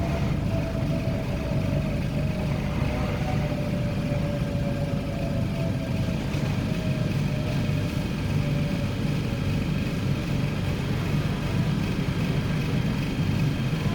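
Korean-built MTR K-train electric multiple unit in motion: steady rumble of wheels on track. A thin motor whine falls slowly in pitch over the first several seconds as the train slows.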